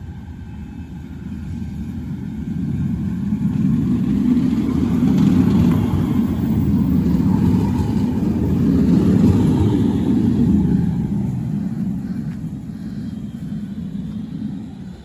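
Manchester Metrolink tram (Bombardier M5000) passing: a low rumble that builds over the first few seconds, is loudest in the middle, then fades and drops off suddenly at the very end.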